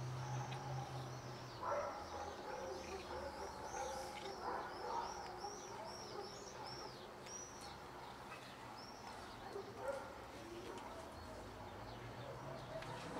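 A small bird chirping: a quick run of short, high, arching chirps, two or three a second, from about two seconds in until about nine seconds in. A low hum is present in the first second or so.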